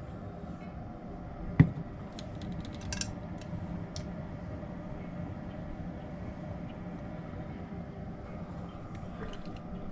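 A steady low hum, with one sharp knock about one and a half seconds in and a few light clicks around three to four seconds in, from containers and utensils being handled while melted bait plastic is poured into a mold.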